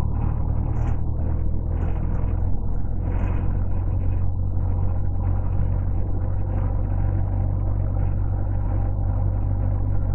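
Model T Ford's four-cylinder engine, with a reground cam, running steadily as the car drives along at about 30 mph, heard from the driver's seat with road noise.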